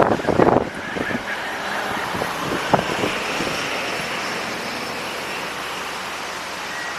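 Steady rush of wind and road noise from a car driving through hurricane winds, with a few sharp knocks in the first second and another about three seconds in.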